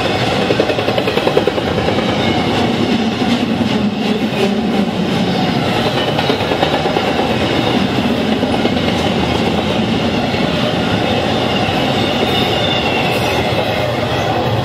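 Freight cars rolling past a grade crossing, their wheels rumbling and clacking over the rail joints in a steady din. These are the tail cars of a double-stack intermodal train, with a steel coil train's cars on the other track.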